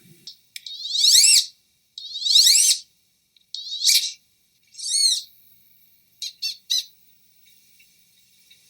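Bird calls: four separate calls, each sweeping up and then down in pitch, about one every second and a half, followed by three short, quick notes about two-thirds of the way in.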